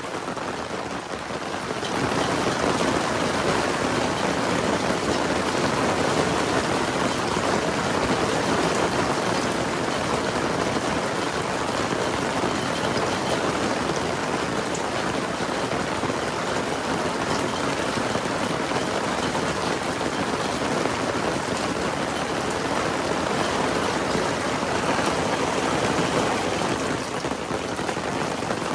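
Heavy rain falling in a steady downpour. It grows louder about two seconds in and eases slightly near the end.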